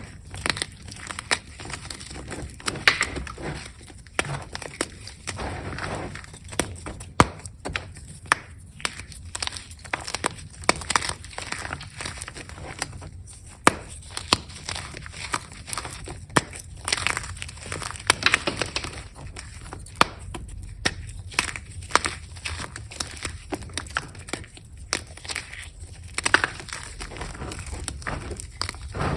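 Reformed gym chalk being crushed. It gives a continuous crumbly crunch with many sharp, irregular cracks as the hard pressed chalk breaks apart.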